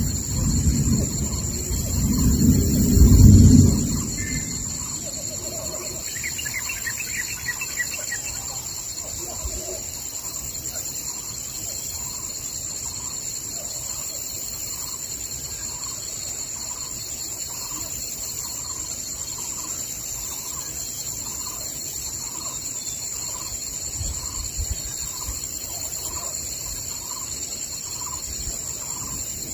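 Forest ambience: thunder rumbles for the first few seconds and fades, over a steady high-pitched drone. A bird then repeats a short call about once a second, with a brief trill a few seconds in.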